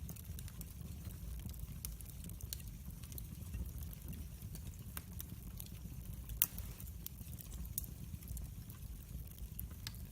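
Wood fire in a fireplace crackling: a steady low rumble of the flames with scattered sharp pops, one louder pop about six seconds in.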